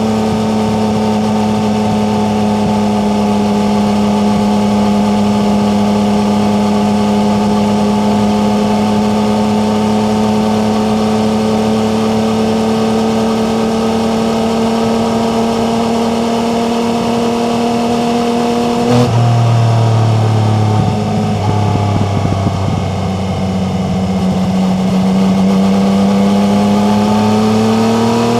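Yamaha MT-09's three-cylinder engine pulling under load, its revs rising slowly and steadily. About two-thirds of the way through, a gear change drops the revs sharply, and they then climb again.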